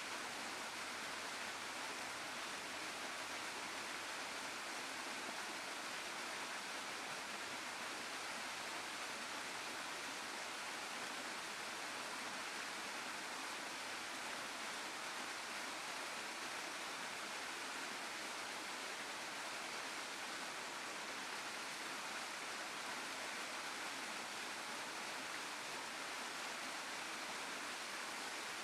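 Waterfall and stream water rushing in a steady, even hiss that holds without a break.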